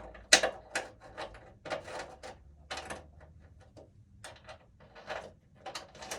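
Irregular metal clicks and scrapes of a cable clamp connector and its locknut being handled and fitted into a knockout in a steel electrical panel box.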